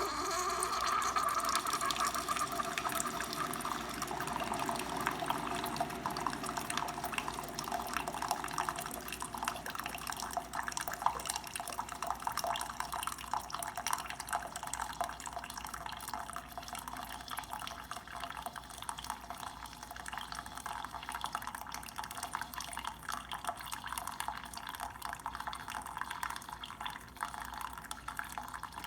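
Keurig K155 single-cup coffee maker brewing: a steady stream of coffee pouring and splattering into a cup, starting suddenly and easing slightly over time.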